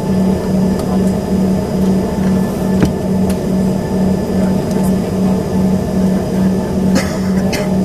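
Cabin drone of an Embraer ERJ-145XR regional jet with its rear-mounted Rolls-Royce AE3007 turbofans running, heard from a seat near the back. A low hum pulses steadily about three times a second under the engine noise, with a few light clicks near the end.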